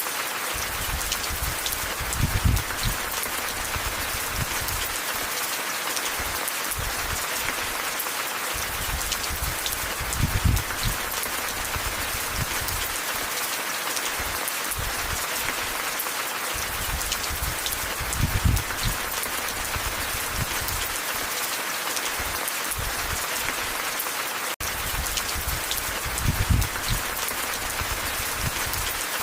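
Steady, dense rainfall hiss. Brief low rumbles come about every eight seconds, four times.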